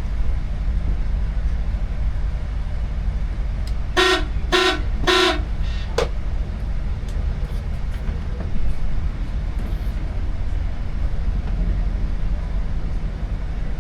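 Steady low drone of a boat's engine running, with a horn sounding three short toots in quick succession about four seconds in.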